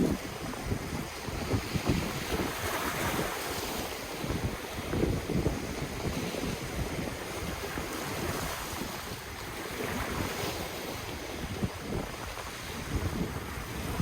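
Ocean waves washing in and out, a steady surf hiss that swells about three seconds in and again near ten seconds. Wind buffets the microphone in low, irregular thumps.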